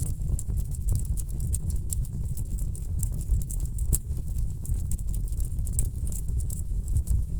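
Wood fire burning in a fireplace: many quick, irregular snaps and pops from the logs over a steady low rumble of the flames.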